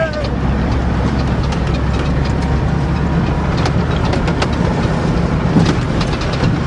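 Ford truck engine running steadily on its first drive after the winter, with a few light clicks and rattles over it.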